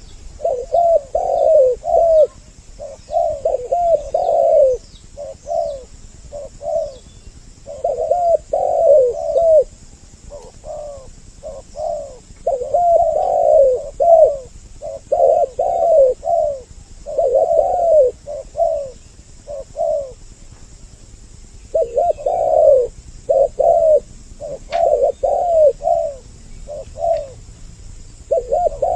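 Spotted dove cooing in repeated phrases of several curved notes, with short pauses between phrases. Faint high chirps of small birds are in the background.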